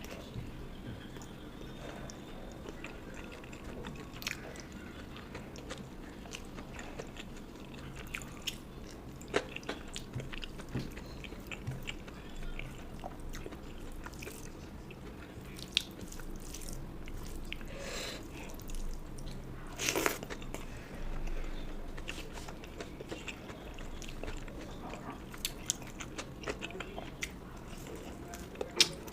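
Close-miked eating: steady chewing broken by many sharp, crunchy bites, with a louder crunch about two-thirds of the way through.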